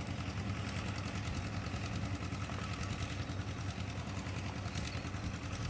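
Engine-driven water pump running steadily in the background, an even low hum with a fast fine pulse, pumping salt floodwater left by a hurricane off the fields.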